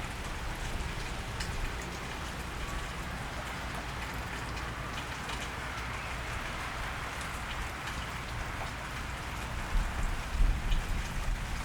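Steady cold rain falling on a wet street, with scattered drops ticking. A low rumble swells briefly near the end.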